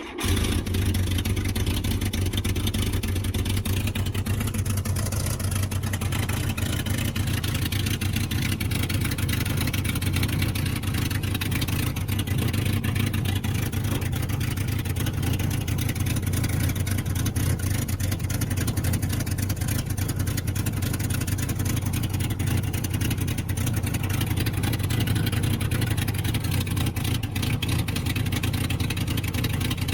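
VW Scirocco race car's four-cylinder engine running steadily, being warmed up.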